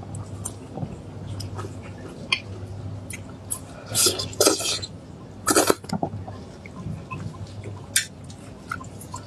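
Close-up eating sounds: wet chewing, lip smacks and small mouth clicks, with two louder wet tearing bursts about 4 and 5.5 seconds in as meat is pulled off a bone with the teeth. A faint steady low hum runs underneath.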